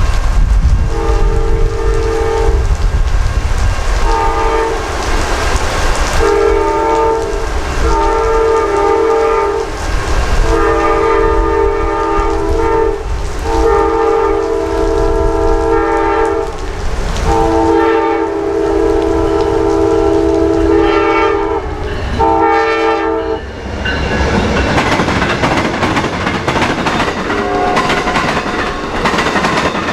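Locomotive multi-chime air horn sounding a long series of long and short blasts over the rumble and clatter of a passing train. The horn stops about three-quarters of the way through, leaving the wheel and rail noise.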